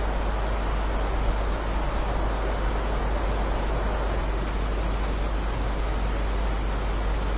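Rain falling steadily, an even, unbroken wash of noise with a steady low rumble beneath it.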